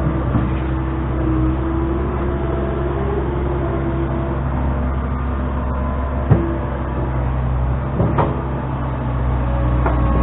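An engine running steadily at constant speed, with two sharp clanks about six and eight seconds in.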